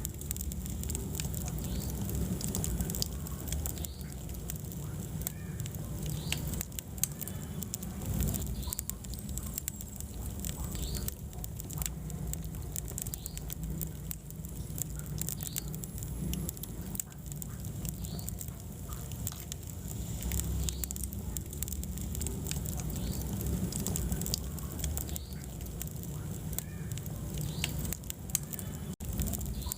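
Wood fire burning in a fireplace: frequent small crackles and pops over a low, steady rumble of the flames.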